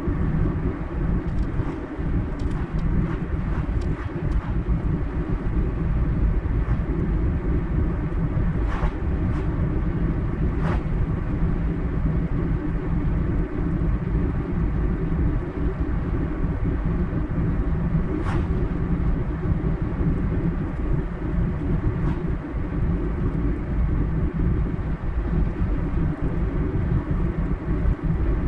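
Car driving at a steady pace: a continuous low rumble of tyre and engine noise, with a few brief faint ticks.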